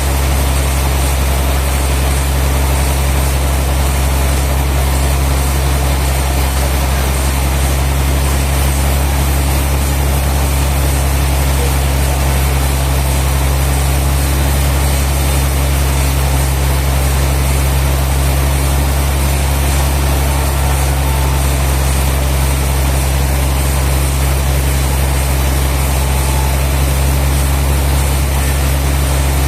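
Sawmill machinery running steadily: a constant low, engine-like drone that holds the same pitch throughout, with no cut, surge or knock.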